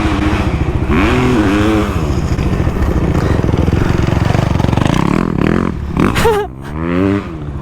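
Motocross dirt bike engine running on the track, its pitch rising and falling several times as the throttle is worked, with a sharp rise and drop near the end.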